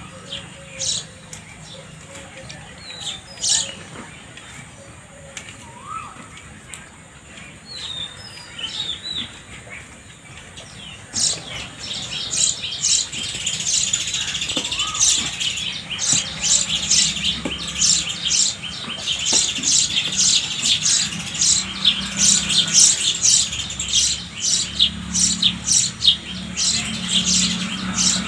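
House sparrows chirping: a few scattered chirps at first, then from about twelve seconds in many birds chirping rapidly at once.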